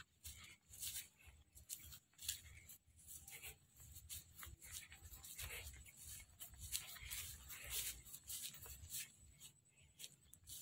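Irregular scratchy rustling and rubbing close to the microphone, many short brushes in a row over a low rumble.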